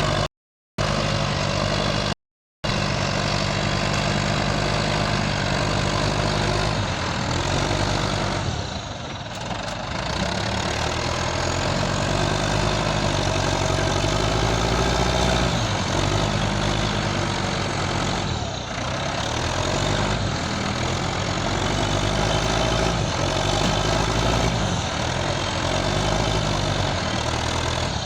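Caterpillar 518 skidder's diesel engine running at work, its speed rising and falling over and over. The sound cuts out completely twice in the first few seconds.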